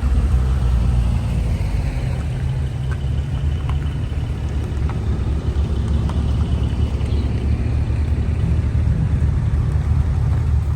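Porsche 911 Carrera S (997) flat-six running while the car drives at a steady pace, a continuous low engine and road rumble.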